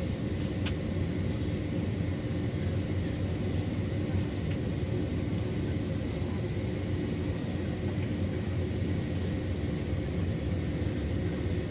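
Steady cabin noise of a Boeing 757-300 airliner on the ground before takeoff: the engines run at low, unchanging power, giving an even rumble with a steady hum. A few faint clicks sound in the cabin.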